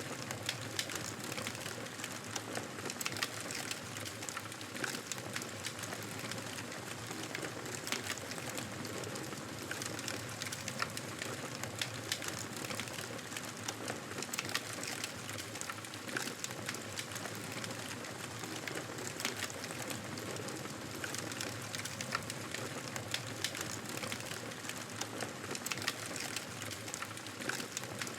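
Wood fire crackling in a fireplace: a steady soft hiss with frequent small sharp pops and snaps scattered throughout.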